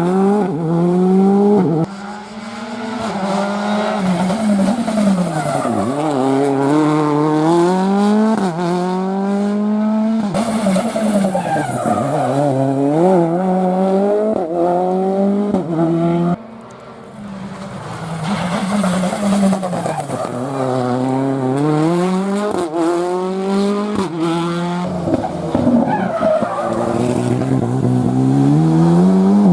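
Rally cars at full racing pace, engines revving hard and rising in pitch, then dropping sharply at each gear change and lift-off, over and over. The sound breaks off suddenly about two seconds and about sixteen seconds in, each time starting over with another car.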